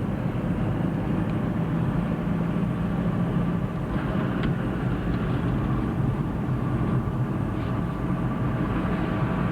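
Steady engine drone and road rumble heard from inside a moving road vehicle.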